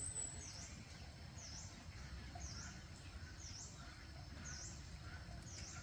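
A small bird calling a high, quick down-and-up note about once a second, over a faint steady outdoor rumble.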